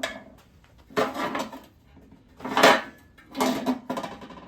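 Three short rustling, scraping bursts about a second apart, the middle one loudest: hands working masking tape and cardboard to cover engine parts for painting.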